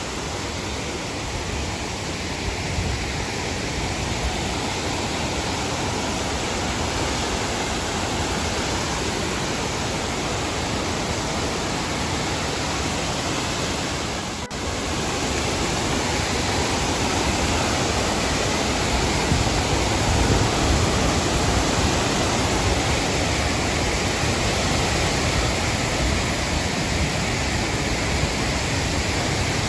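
Waterfall close by: a steady rush of falling water, dipping briefly about halfway through.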